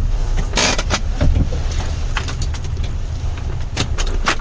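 Steady low rumble of a car on the move, with scattered sharp clicks and jingling through it.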